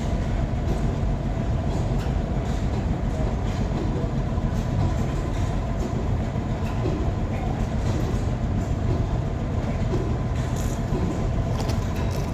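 Engine running steadily, with a low rumble and a faint steady hum above it.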